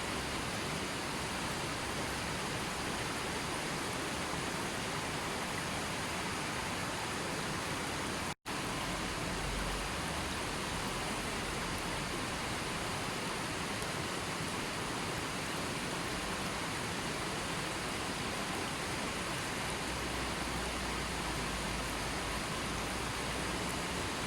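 Steady, even rushing of water from a nature-sounds recording. It cuts out for an instant about eight seconds in.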